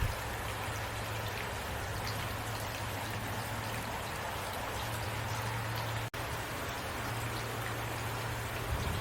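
Heavy rain falling steadily, individual drops ticking over a dense hiss, with a low steady hum underneath. The sound cuts out for an instant about six seconds in.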